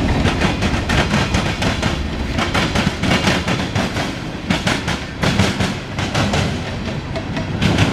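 Freight cars of a Norfolk Southern mixed freight train rolling past, steel wheels clattering over the rail joints in a dense, irregular run of knocks over a steady low rumble.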